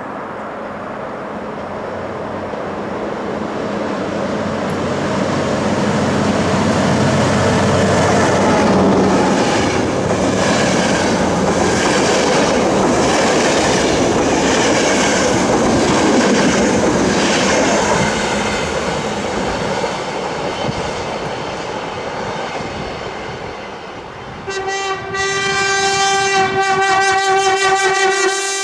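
Adtranz-built train running through the station: the rumble of wheels on rail swells and then fades, with a regular clickety-clack of wheels over rail joints at its loudest. Near the end a long train horn blast sounds.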